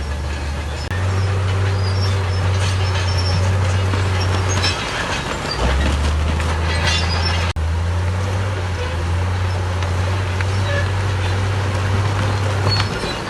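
Heavy earthmoving machinery at work: a big diesel engine drones, its pitch stepping up and down with the load, under metallic clanking and squealing. The sound drops out for an instant about halfway through.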